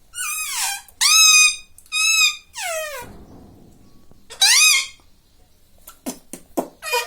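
Indian ringneck parakeet calling: five short, high, squeaky calls that bend down in pitch, then a few short sharp sounds near the end.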